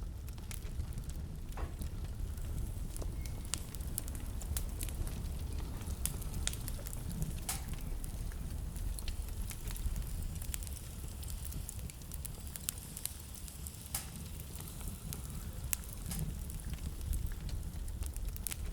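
Wood fire burning in a fireplace: a low steady rumble of the flames with frequent sharp crackles and pops scattered throughout.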